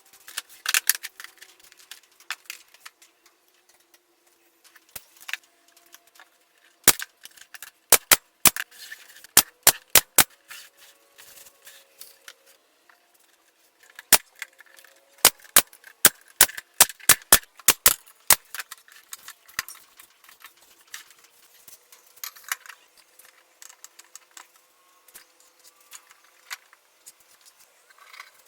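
Pumpkin J-F50 pneumatic brad nailer firing, a series of sharp shots in two quick runs, with lighter metallic clinks and clicks between.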